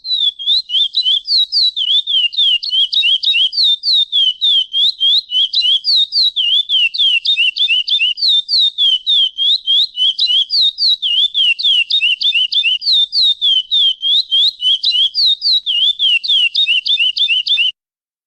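A chestnut-bellied seed finch (curió) giving a long, fast run of short whistled notes, each sliding down and back up, about four a second: the repeated call notes known as pialadas. It stops shortly before the end.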